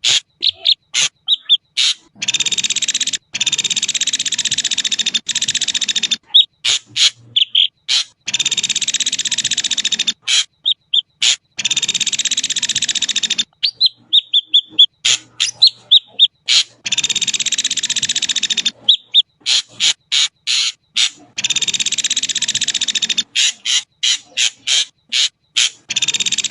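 Ashy drongo calling: harsh, hissing phrases of a second or two alternate with quick runs of sharp notes and short whistles.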